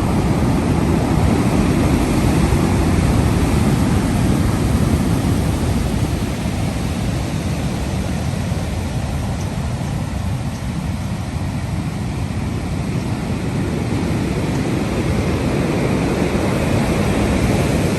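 Ocean surf: a continuous loud rush of waves that swells, eases to a lull around the middle and builds again near the end.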